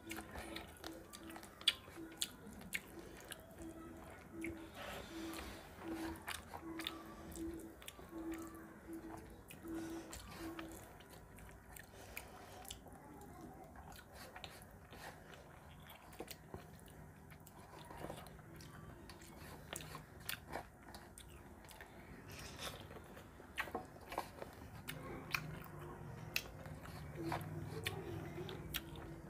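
Close-up eating sounds: chewing and mouth clicks of rice and fish curry being eaten by hand, with the soft clicks of fingers mixing rice on a metal plate.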